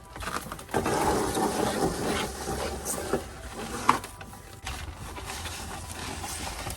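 A dog crunching and chewing food at its bowl, an irregular rattle of small clicks and crunches.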